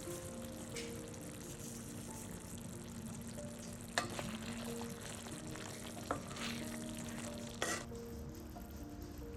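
Food sizzling as it fries in a pan, with three sharp knocks, the loudest about four seconds in.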